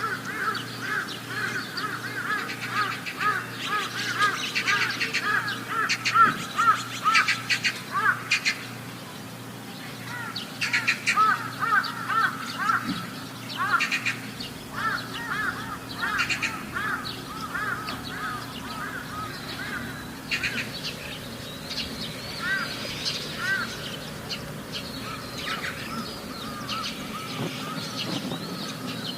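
Many birds calling together: a dense run of short, repeated chirps with harsher calls mixed in, busiest in the first half and thinning out later.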